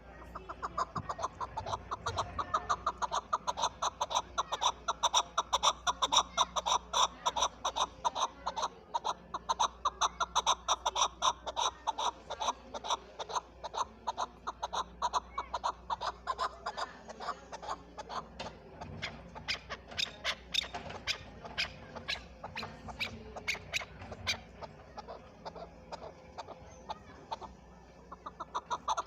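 Chukar partridge calling: a long, rapid run of short clucking chuck notes, many a second, thinning out near the end.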